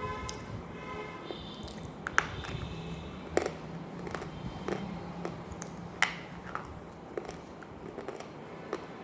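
Close-up biting and chewing of something dry and crunchy, with sharp, irregular crunches every second or so.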